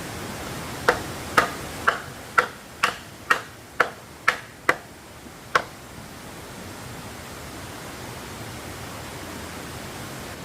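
About nine sharp hammer blows on wood, evenly paced at roughly two a second, stopping about halfway through. A steady rushing noise runs underneath.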